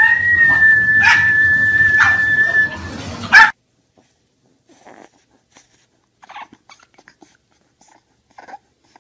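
A dog's long, high, steady whine held for about three seconds, broken by short sharp sounds and ending with a loud one. After an abrupt cut, a bulldog puppy gives a few faint, short whimpers.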